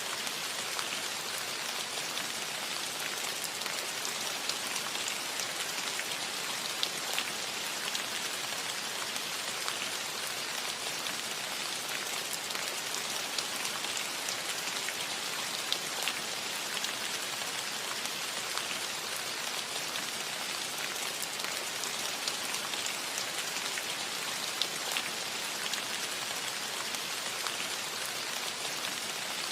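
Steady rain falling on a cottage roof: an even hiss of rainfall with many individual drops ticking sharply throughout.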